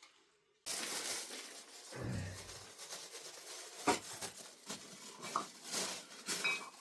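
Kitchenware being handled: clinks and clatter over a steady hiss, with a short low sound about two seconds in.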